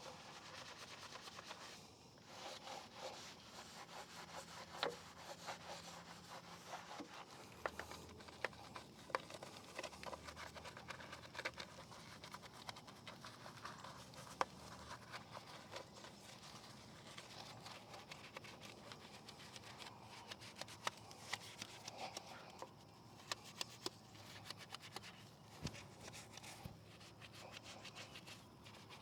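Faint scrubbing of a brush on a trailer tire, rubbing and scraping with scattered small clicks.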